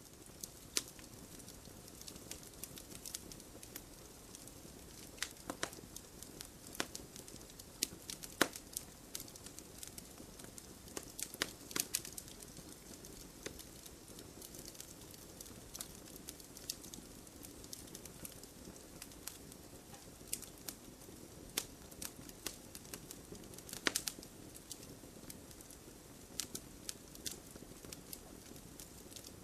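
Campfire crackling: burning wood giving irregular sharp pops and snaps over a steady low hiss.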